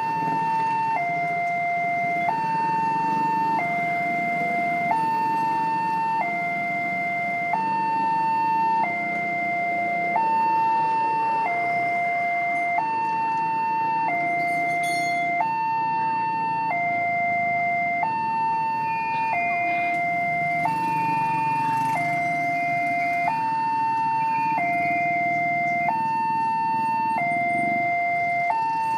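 Railway level-crossing warning alarm sounding a steady two-tone high-low signal, each tone held about a second and a quarter, warning that a train is coming and the crossing barrier is closing. A low rumble of engines runs underneath.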